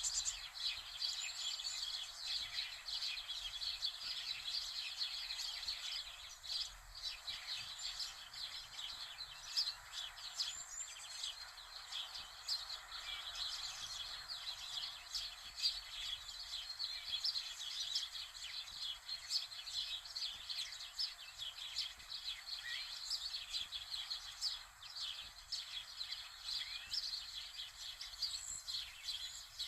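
Birds chirping: a dense, steady chorus of many overlapping short chirps, with a few sliding notes.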